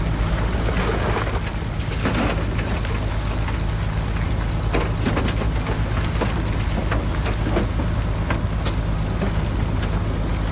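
Shantui DH17C3 bulldozer's diesel engine running steadily under load, with a dense crackle of many small clicks over it.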